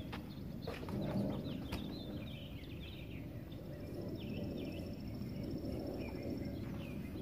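Birds chirping repeatedly in short calls over a steady low outdoor rumble, with a few faint knocks in the first couple of seconds.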